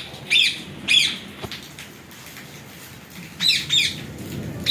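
Caged parrots giving short, sharp screeching calls, two near the start and two more after a pause of about two seconds.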